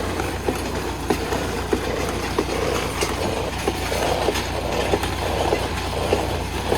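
Homemade drip-tape laying machine on the move, clacking in an even rhythm about every half second over a steady engine drone.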